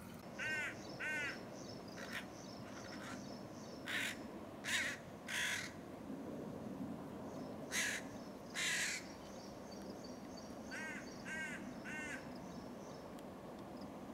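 Birds calling: about a dozen harsh, caw-like calls in runs of two or three, with fainter high chirping of smaller birds behind.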